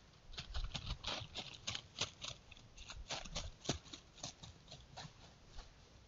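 Close, irregular crunching and crackling steps, a quick run of a dozen or more that thins out toward the end, as of something moving right beside a trail camera's microphone.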